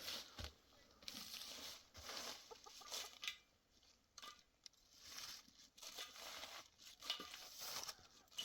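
Faint, intermittent rustling and crinkling, with a few short clucks from poultry.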